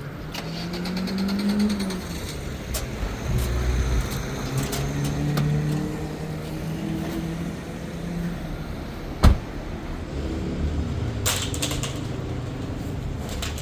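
An engine running, its pitch rising during the first couple of seconds and then holding fairly steady, with one sharp knock about nine seconds in.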